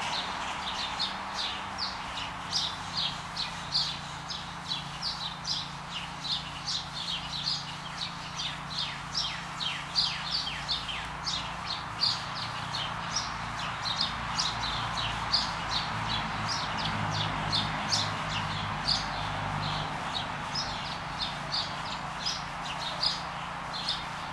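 A bird chirping over and over, short high chirps that drop in pitch, about two a second, over a steady low hum.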